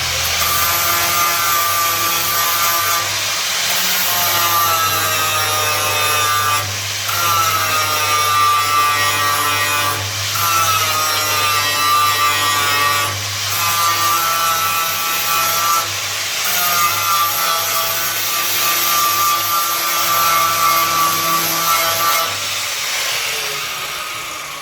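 Angle grinder grinding a steel car floor panel: a loud, steady whine and rasp that breaks off briefly every few seconds as the disc is lifted, then a falling whine as the grinder spins down near the end.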